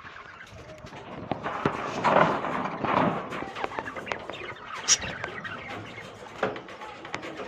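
A colony of caged lovebirds chattering: a dense stream of short chirps, squeaks and clicks, busiest a couple of seconds in, with one sharp high chirp about five seconds in.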